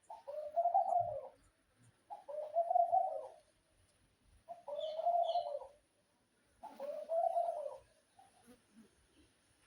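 Pigeon cooing: four drawn-out coos of about a second each, roughly two seconds apart. A brief high chirp sounds about halfway through.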